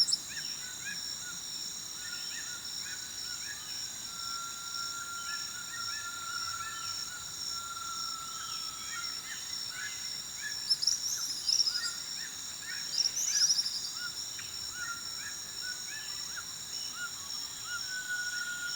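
Nature soundscape: a steady, high insect chorus with many birds chirping. Two louder high bird trills come about eleven and thirteen seconds in.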